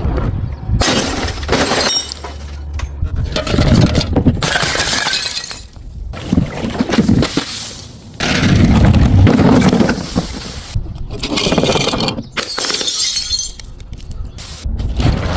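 Glass bottles smashing and shattering, several crashes one after another with tinkling glass between them; the loudest comes about eight seconds in.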